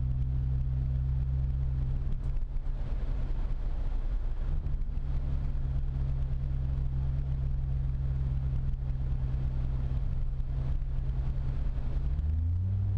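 Ford Fusion Sport's 2.7-litre twin-turbo V6 heard from inside the cabin through a Magnaflow axle-back exhaust with both resonators deleted: a steady low exhaust note with road noise while driving at city speeds. The pitch climbs near the end as the revs rise.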